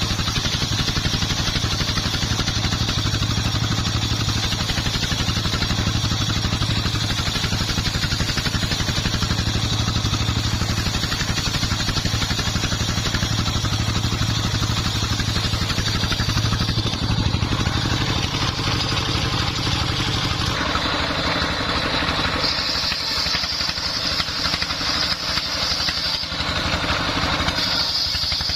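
Dongfeng 24 hp diesel engine running steadily, driving a homemade circular sawmill. About two-thirds of the way through the engine note drops and a high whine with a rasp comes in twice, as the blade cuts into the wood.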